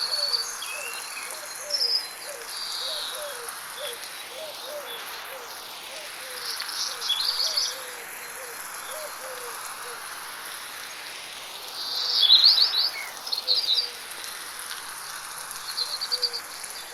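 Forest birds singing in bursts of quick high chirps and trills over the steady hiss of light rain and a constant high insect drone. A low call repeats a little faster than once a second through the first half, then fades.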